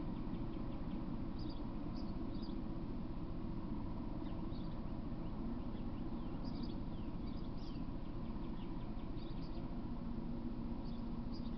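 Small birds chirping in short, high, quick calls, some falling in pitch, in little clusters every second or two. They sound over a steady low hum and hiss.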